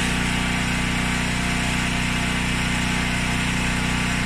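Front-loading washing machine on its drain-and-spin cycle, giving a steady electric hum before the drum spins up.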